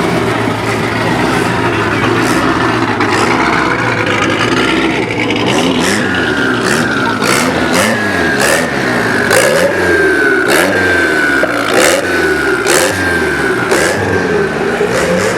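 Several car engines revving up and down over one another, with sharp pops in the second half.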